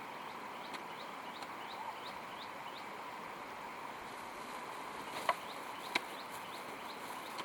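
Birds chirping in short repeated calls over a steady outdoor hiss, with a few sharp clicks or knocks, two loud ones past the middle.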